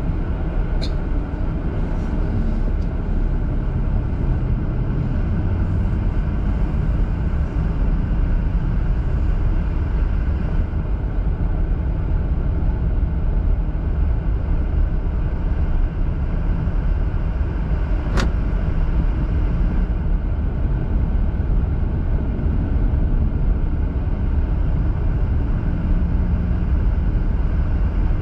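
Steady rumble of road and engine noise heard inside a moving car's cabin, with a single sharp click about eighteen seconds in.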